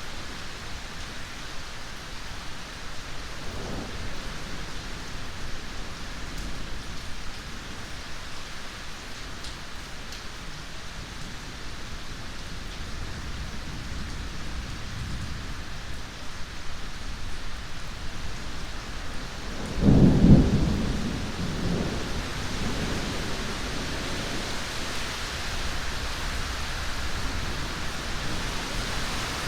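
Steady heavy rain with thunder: a faint distant rumble a few seconds in, then a loud thunderclap about twenty seconds in that rolls on as a low rumble.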